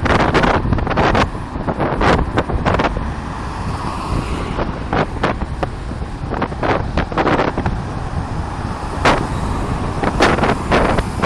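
Heavy wind rumble on the microphone over a running vehicle, with many irregular sharp knocks or clicks.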